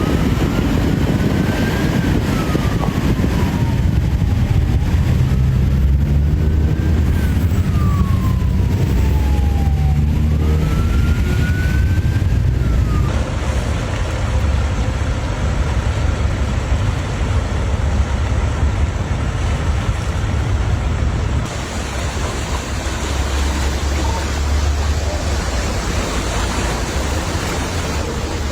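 Emergency vehicle siren wailing, its pitch rising and falling slowly three times, over a loud low rumble. The siren stops about 13 seconds in, and the rumble carries on.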